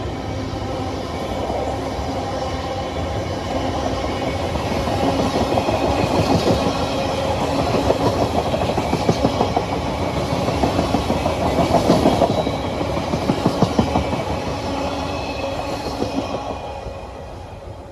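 Freight train passing, its wagons' wheels clattering over the rail joints in a regular rhythm. The sound builds to its loudest about two-thirds of the way through, then eases off.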